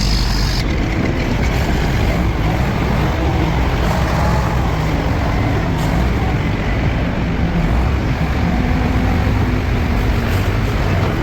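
Heavy vehicle's diesel engine running steadily at a constant speed, with a brief high tone in the first half-second.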